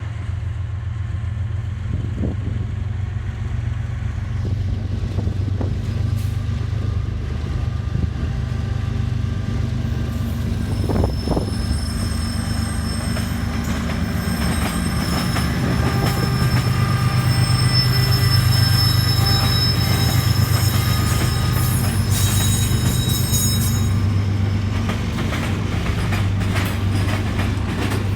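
Freight train's diesel locomotive running with a steady low drone, with a high squeal of steel wheels on the rail from about a third of the way in until near the end.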